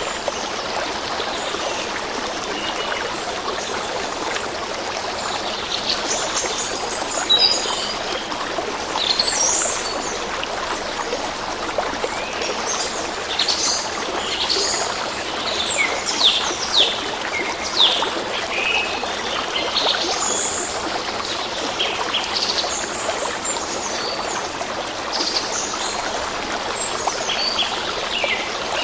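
A stream running and trickling steadily, with small birds chirping and calling over it from a few seconds in.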